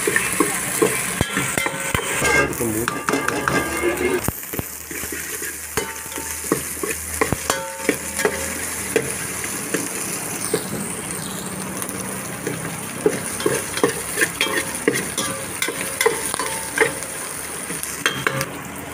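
Diced potatoes frying in oil in a large aluminium pot, sizzling steadily, while a metal spoon stirs them, scraping and clicking against the pot's bottom and sides.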